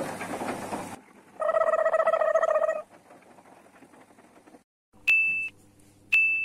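Washing machine control panel sounding: a lower buzzing tone for about a second and a half, then two short high electronic beeps about a second apart, each opening with a button click. Background music fades out in the first second.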